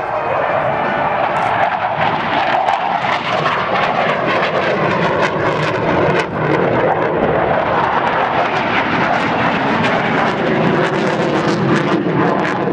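Airplane flying past the crowd at an air show, a loud, steady rush of engine noise.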